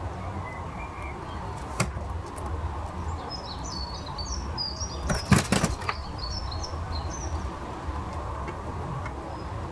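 A bird's wings flapping in a short flurry about halfway through, among a run of high, quick chirps from small birds, over a steady outdoor background hum.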